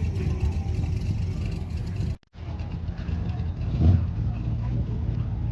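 Car engines running as cars drive out of a show lot, a steady low rumble with one louder surge about four seconds in. The sound cuts out for a moment about two seconds in.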